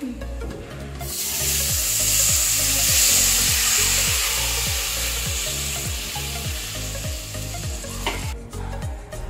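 Rasam poured into a pan of hot tempering oil with dried red chillies, hissing and sizzling loudly as the liquid hits the hot pan. The sizzle starts about a second in, slowly dies down and stops suddenly near the end.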